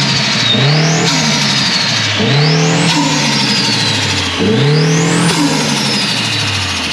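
Audi S3's turbocharged four-cylinder engine revving up three times, about a second, three seconds and five seconds in, with a high turbo whine rising with each pull and sliding down after it. The blow-off valve has been removed and its ports plugged, so boost is not vented when the throttle closes.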